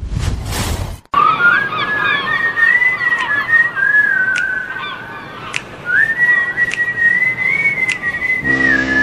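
Intro of a rai song: a short whoosh, then a slow whistled melody line with gliding pitch over a steady hiss, with a few light ticks. Near the end a held chord comes in beneath it.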